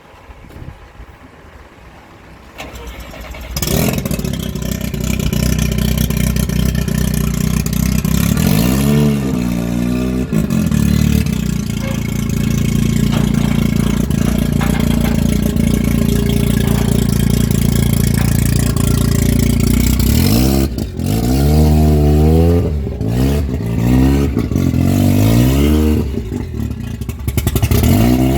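A car engine starts about three and a half seconds in and idles, then is revved in short blips, once around eight to ten seconds in and several times near the end.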